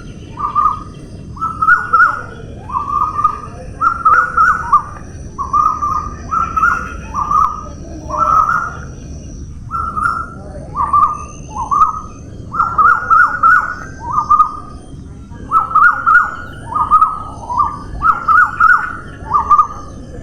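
A bird calling over and over: short, slightly falling notes at a middle pitch, about two a second, some with quick stutters.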